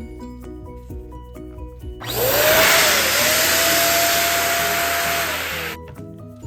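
Electric balloon inflator blowing for about four seconds, starting about two seconds in: its motor hum rises as it spins up, holds steady under a loud rush of air, then winds down and stops near the end. Background music plays underneath.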